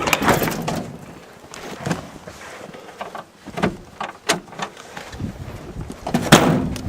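Scattered knocks and scrapes from the tow truck's hood and doors being worked, with one louder clunk about six seconds in.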